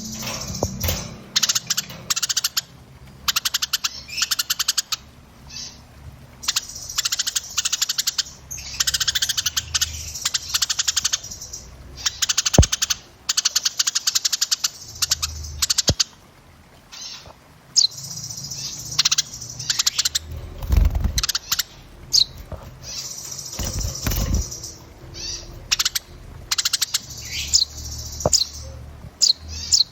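Small songbirds chattering in dense, rapid bursts of high ticking trills, with sharp falling whistle notes in the second half. There are two low thumps in the second half.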